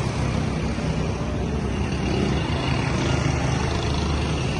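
Tractor engine running steadily while under way: a continuous low engine drone with road and wind noise over it.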